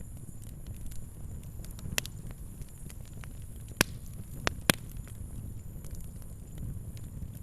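Fire crackling over a steady low rumble of flames, with scattered small ticks and a few sharp pops, the loudest around the middle.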